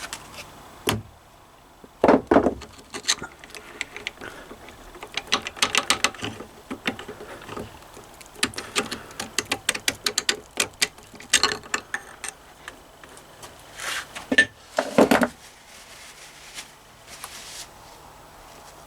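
Hand tools working on the connecting rod big-end of a Triumph Bonneville T140 crankshaft: sharp metal clicks and clinks, some in quick runs, with a few louder knocks about two seconds in and near fifteen seconds, as the second rod's big-end cap is undone and removed.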